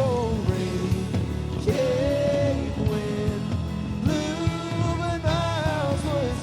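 Live worship band playing a contemporary worship song with drums, guitars and sung vocal lines.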